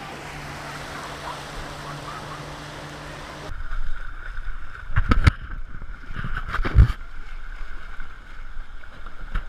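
Kayak paddling: water splashing and the paddle knocking against the hull, with several heavy knocks. Before that, a clip of steady surf and wind hiss, which ends at a sudden cut about three and a half seconds in.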